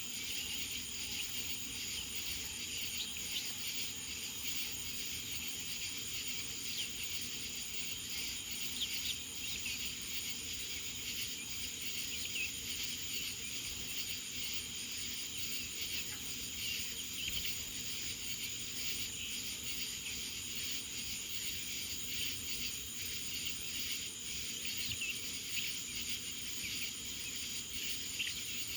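Steady chorus of insects such as crickets calling, with a fast pulsing high trill running through it.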